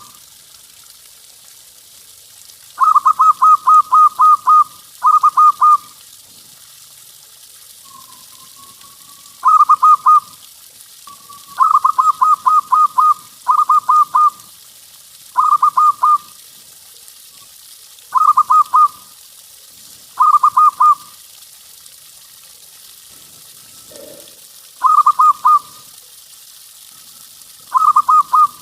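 Zebra dove (perkutut) cooing: repeated short phrases of quick, evenly spaced notes, a phrase every second or two, over a steady faint hiss.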